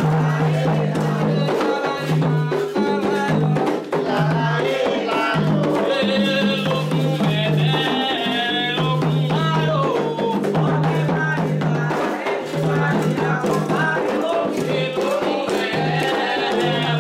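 Candomblé ritual drumming for Xangô: atabaque drums, led by the rum, playing a steady repeating pattern with a shaken rattle, and voices singing over it.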